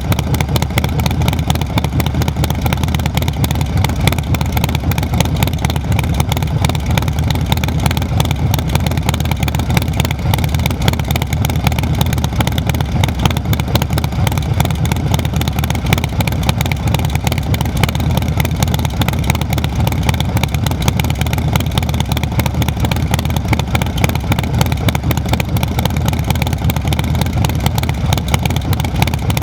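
Harley-Davidson Milwaukee-Eight 131 V-twin with Cyclerama 483 cam and SP Concept exhaust, idling steadily with a deep, even pulsing exhaust note and no revving.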